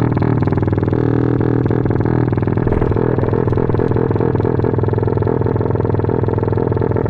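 Motorcycle engine through an aftermarket Norifumi racing exhaust, running at a fairly steady speed with a rapid, even exhaust beat.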